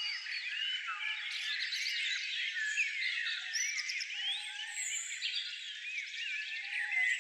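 Many small songbirds chirping and singing at once: a dense, overlapping chorus of short chirps and quick rising and falling whistled notes.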